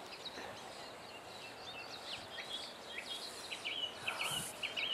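Small songbirds chirping over the steady hiss of a flowing stream. The chirps come thicker in the second half, as a quick run of repeated short notes.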